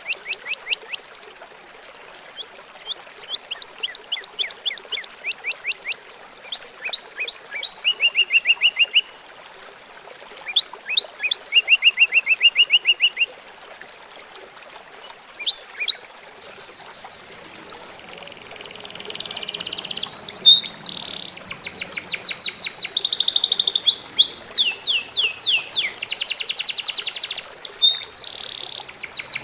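A songbird singing in rapid trills of quickly repeated high notes: short phrases at first, then louder, near-continuous trilling from a little past halfway. Under it runs the steady babble of trickling water.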